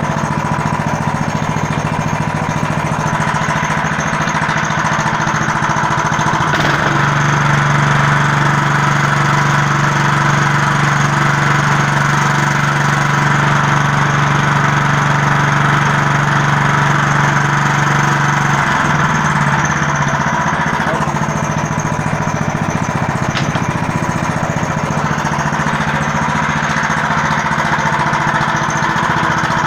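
15 hp engine of a homemade all-terrain vehicle running steadily. Its note changes and settles about six seconds in, then changes again at about nineteen seconds.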